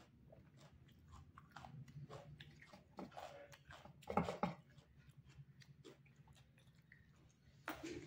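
Close-miked chewing of a mouthful of rice and dal: many small wet mouth clicks and smacks, with a louder stretch about four seconds in.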